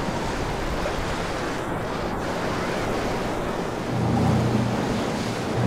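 Wind and rough surf at an ocean inlet, a steady rushing wash of waves with wind buffeting the microphone. About four seconds in, a steady low drone of a boat engine joins it.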